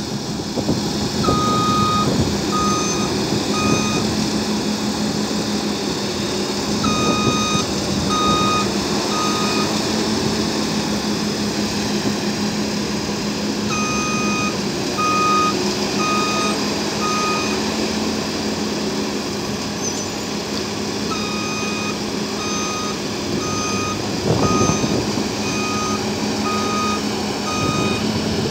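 New Holland CS6050 combine harvester running steadily with a constant low hum. Its high beeping alarm sounds in short runs of several beeps, four times.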